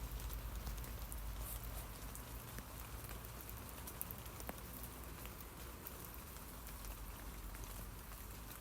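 Rain falling on tree leaves: many small, scattered drop ticks over a steady hiss, with a low rumble underneath.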